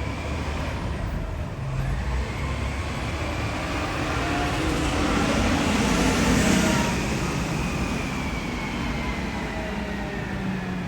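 A vehicle drives past on the wet street, its tyres hissing. The sound swells to its loudest about six seconds in, then fades.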